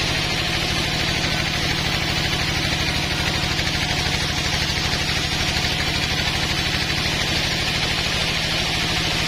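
Sawmill running steadily: an engine's even, pulsing hum with a steady hiss above it.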